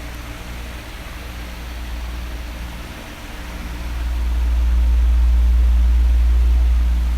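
Electric fan blowing: a steady, even whoosh with a strong low rumble that swells about four seconds in and eases near the end.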